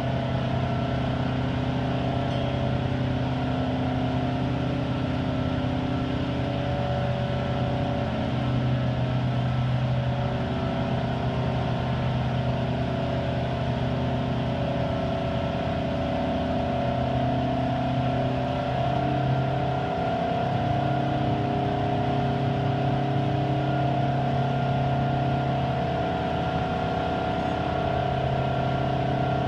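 Detroit Diesel engine of an American Hoist & Derrick 9530 crane running steadily under work. Its note steps up and down a few times as the engine speed and load change.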